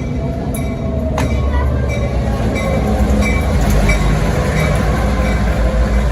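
Train running on rails: a steady heavy rumble of wheels and cars, with a single sharp clank about a second in.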